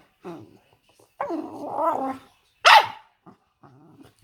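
A bully-breed dog vocalising: a short call, then a drawn-out moaning call about a second in, then a sharp, loud squeak a little later.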